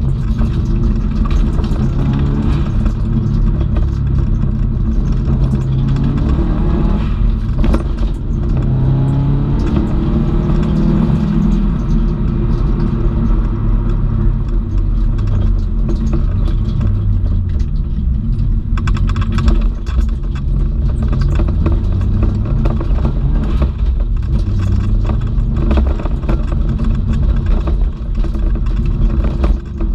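Subaru Impreza WRX STI's turbocharged flat-four engine heard from inside the cabin, running hard with its pitch rising and falling as the car is driven around a track.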